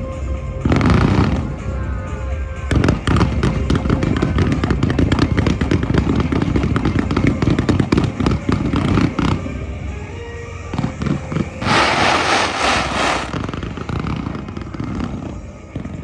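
Fireworks bursting and crackling in quick succession, with a dense run of bangs through the first half. A loud hissing, crackling burst follows a little after the middle. Music plays underneath.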